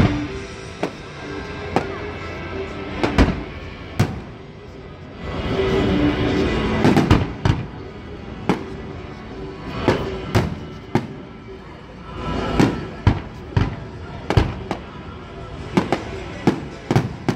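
Aerial fireworks shells bursting one after another: a string of sharp, irregularly spaced bangs, coming several in quick succession near the end.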